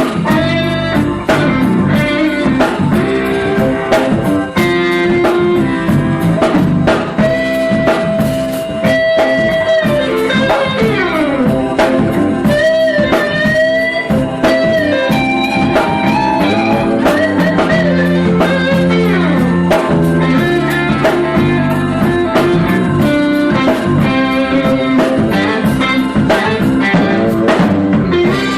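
Blues music: electric guitar playing lead lines with bent and sliding notes over a steady drum-kit beat.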